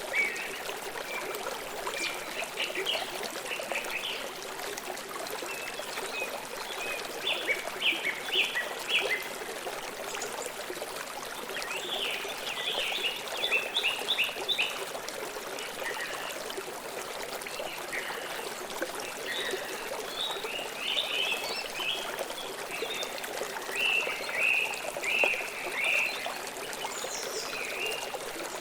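River water flowing steadily, with bursts of short, high bird chirps every few seconds.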